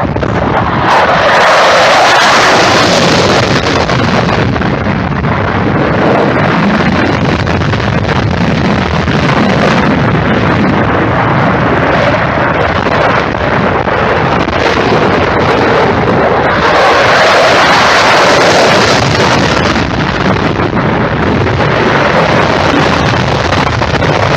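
Jet aircraft engines roaring overhead as a loud, continuous rush of noise that swells twice, about two seconds in and again about seventeen seconds in.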